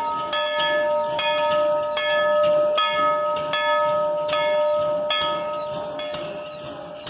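Steam locomotive bell ringing, struck in a steady rhythm a little more than once a second. The strikes stop about five seconds in and the ring dies away.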